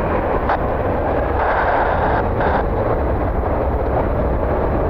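A heavy cargo jet's engines at takeoff power, a steady loud rumble, mixed with wind buffeting the microphone.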